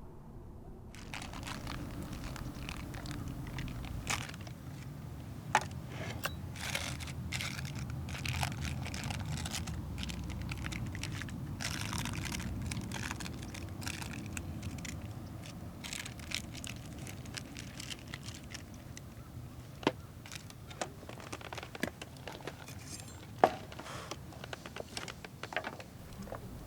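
Rustling and crinkling handling noise with many scattered sharp clicks and knocks over a low steady rumble, starting about a second in.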